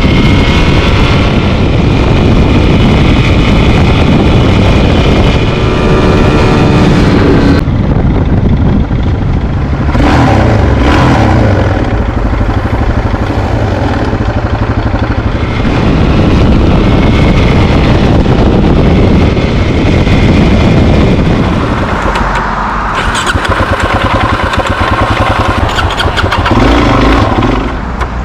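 Suzuki DR-Z400SM motorcycle's single-cylinder engine running loud, its pitch changing several times with the throttle.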